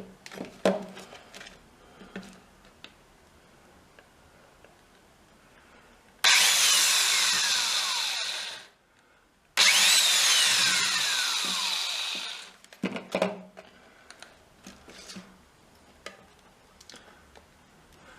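Power drill drilling into a thin sheet-metal box in two bursts of about two and a half seconds each, the motor's whine dropping in pitch as the bit bites. Small handling knocks come before and after.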